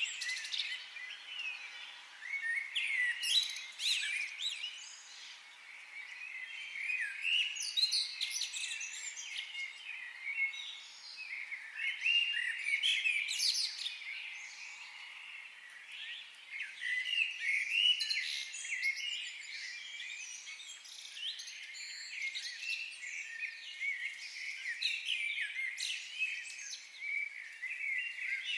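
Several wild birds chirping and singing together, a steady overlapping chorus of high chirps and trills.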